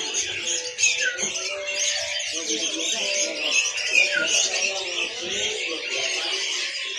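Many caged songbirds chirping and calling at once, a dense, continuous chatter with short falling chirps standing out now and then, over background music.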